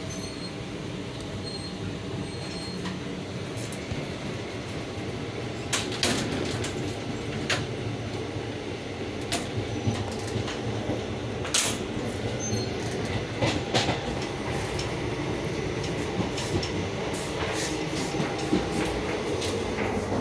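Passenger train running, heard from inside the coach: a steady rumble with irregular sharp clicks and knocks from the wheels and rails, which come much more often from about six seconds in.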